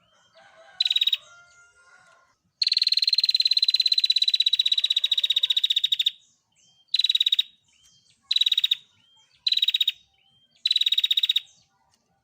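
Female prinia (prenjak) giving its rapid, dry trill: a brief burst, then one long trill of about three and a half seconds that sinks slightly in pitch, then four shorter bursts of under a second each in quick succession.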